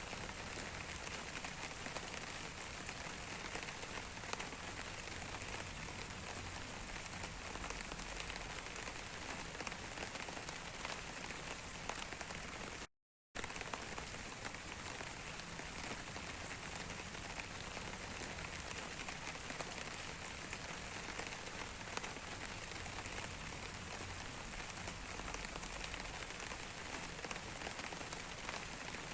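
Steady rain falling, an even hiss with scattered single drops ticking. It cuts out to silence for a moment about halfway through.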